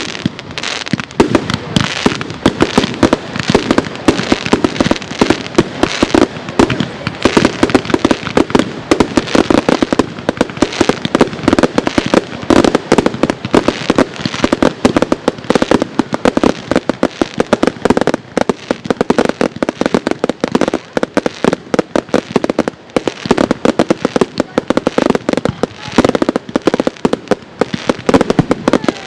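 Fireworks display: a rapid, unbroken barrage of aerial shell bursts and crackling, many bangs a second.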